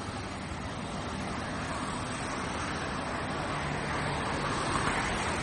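City street traffic: an even wash of road noise from passing cars that slowly grows a little louder, with a faint low engine hum about two-thirds of the way through.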